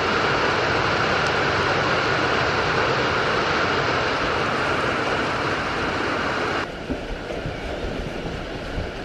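Steady hiss of falling rain. About two-thirds of the way in it cuts off abruptly, leaving a quieter background with a few soft low thumps.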